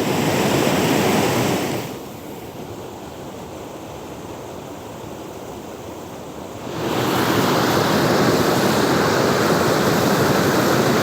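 Waterfall rushing: a steady hiss of falling water. It drops to a quieter, duller rush about two seconds in and comes back up to full level about seven seconds in.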